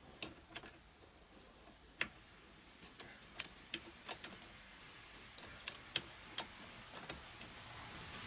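A dozen or so sharp, light clicks and taps at uneven intervals, the sound of hand tools and wheel nuts being handled during a tyre change.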